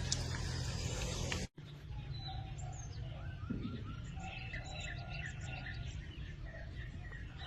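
A rushing noise runs for about a second and a half, then cuts off abruptly. After the break, small birds chirp repeatedly over a low, steady background rumble.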